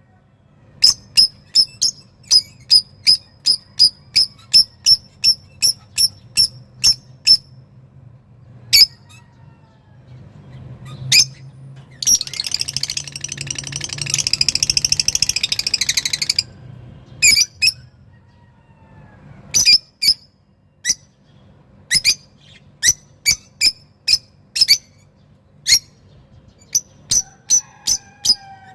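A caged songbird singing excitedly: short, sharp repeated notes at about two a second, broken about twelve seconds in by a loud, fast, rattling trill lasting about four seconds, then more spaced sharp notes. A faint steady low hum runs underneath.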